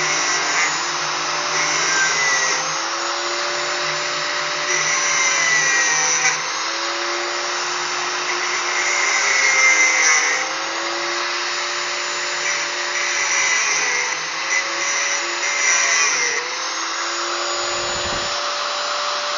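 Small electric angle grinder with a thin zip-cut (cut-off) disc running, its motor note dipping again and again as the disc is pressed into the steel to open up the corners of a square hole.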